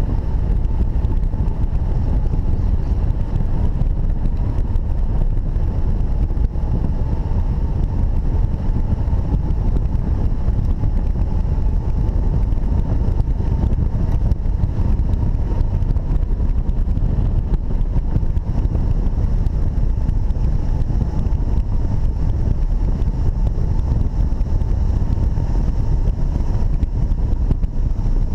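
Strong wind rushing over the microphone of a hang glider in flight, a steady, heavy low rumble, with a faint steady high tone running under it.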